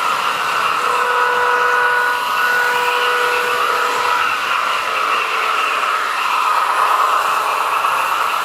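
Märklin HO-scale VT 11.5 diesel train model running, its sound decoders playing steady diesel engine sound through small speakers in both power cars, mixed with the model's motor and running noise.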